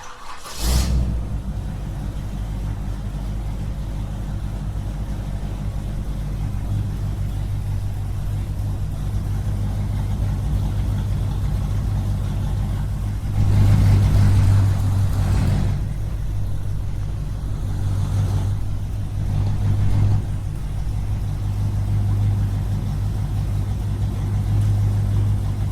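A small engine running steadily with a low, even hum. About halfway through it grows louder for a couple of seconds, with added rushing noise, and swells again briefly a few seconds later.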